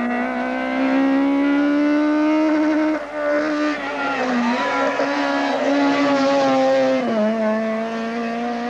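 Rally car engine at high revs under hard acceleration, its pitch climbing steadily and then dropping sharply with gear changes about three seconds in and again about seven seconds in.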